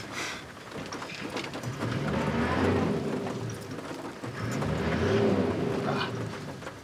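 A Toyota four-by-four's engine revs up hard twice, each time rising in pitch and then falling away, with a hiss underneath. It is the sound of the wheels spinning for traction in slick black cotton mud as the vehicle bogs down.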